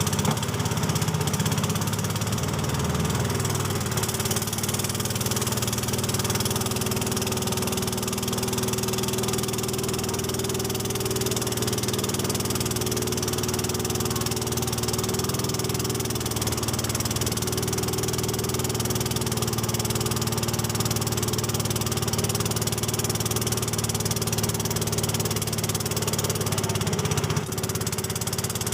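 Motorboat engine running steadily, with a brief dip in level near the end.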